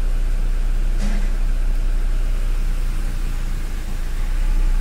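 Toyota Innova Crysta's engine idling steadily, heard from inside the cabin, with a brief click about a second in as the manual gear lever is shifted. The gears go in properly after a fresh clutch overhaul.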